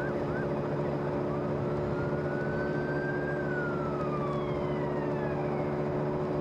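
An emergency-vehicle siren: a few quick yelps right at the start, then one slow wail that rises and falls away. Under it runs a steady engine hum.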